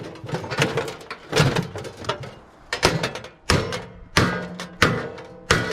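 Repeated hammer blows on a microwave oven's sheet-metal casing, roughly one or two a second, each with a brief metallic ring, as the casing is broken open.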